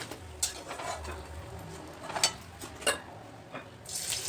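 A metal utensil clinks against a frying pan about four times while eggplant slices deep-fry in oil.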